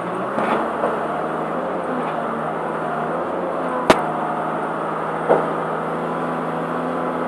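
Prentice log loader running steadily while loading logs, with a few knocks, the sharpest about four seconds in and another a second or so later.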